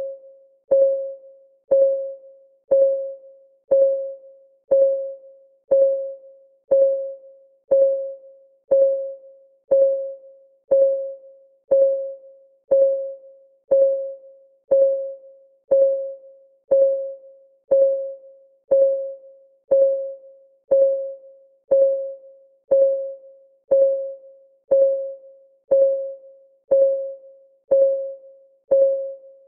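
Clock ticking sound of a countdown timer: one sharp tick each second, each with a short, mid-pitched ring that dies away quickly.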